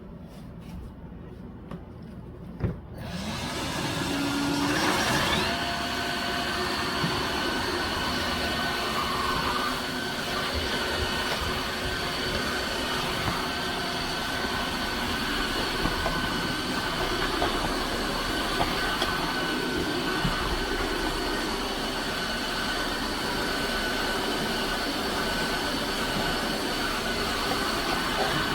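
Tineco iFLOOR 5 Breeze cordless wet-dry floor washer switched on with a click about three seconds in. Its motor spins up with a rising whine, then runs steadily with a high whine.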